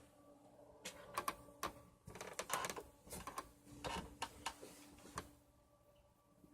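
A run of irregular clicks and knocks for about four seconds, over a faint steady hum.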